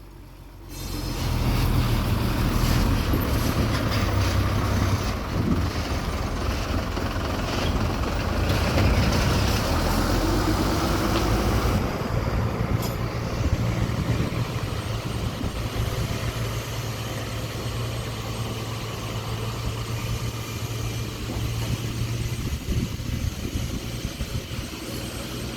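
Diesel dump truck engine running steadily with a deep rumble, starting up about a second in, with a single short click around the middle.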